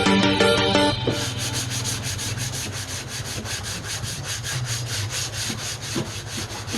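Sandpaper rubbed back and forth over body filler, in quick, even strokes of about five or six a second. Background music cuts off about a second in.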